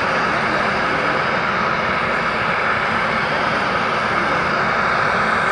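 Air Force aircraft's engines running, a loud, steady noise that holds level throughout.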